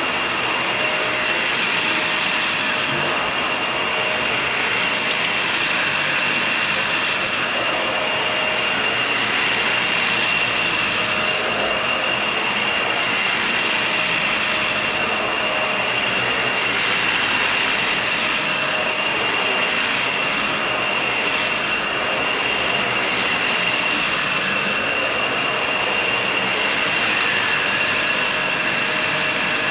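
Vacuum cleaner running steadily with a constant high whine as it works over a shaggy rug, the rushing sound swelling and easing every few seconds.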